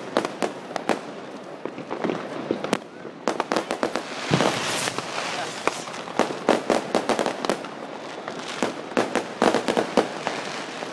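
Many fireworks and firecrackers going off all around: a rapid, irregular scatter of bangs and pops, with a louder hissing stretch about four seconds in.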